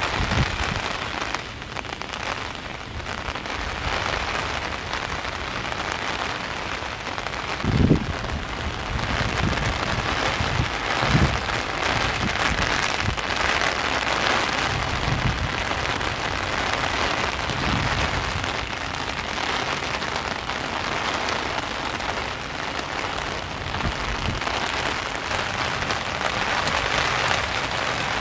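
Heavy rain falling steadily, an even hiss of drops, with two short low thumps about eight seconds in and again about three seconds later.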